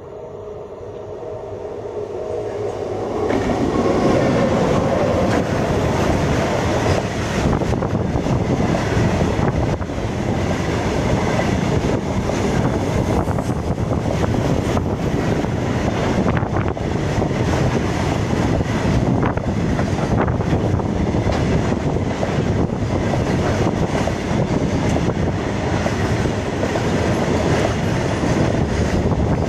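Indian Railways WAG-9 electric locomotive hauling a loaded freight train past at speed: the sound grows quickly over the first few seconds as the locomotive arrives, then the long rake of covered freight wagons runs by close at hand, a loud steady rumble with wheels clattering on the rails throughout.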